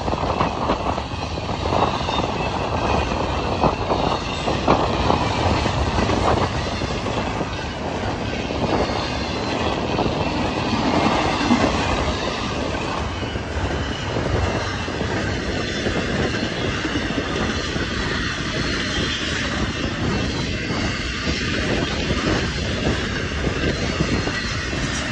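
Double-stack intermodal freight train's container well cars rolling past: a steady rumble with wheels clattering over the rail joints.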